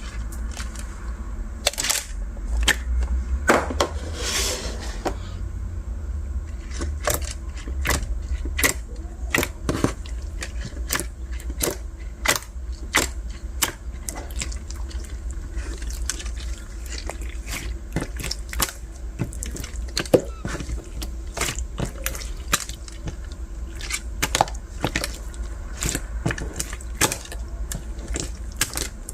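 Semi-transparent bead slime being squished and worked by hand, making wet, sticky pops and clicks at irregular intervals, about one or two a second, with a longer squelch about four seconds in. A low steady hum runs underneath.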